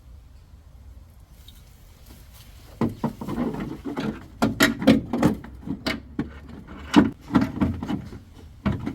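Handling noise of metal parts: quiet for the first few seconds, then a quick run of sharp clicks, knocks and scraping from about three seconds in, as the clutch actuator motor is fitted back onto a Toyota MMT gearbox.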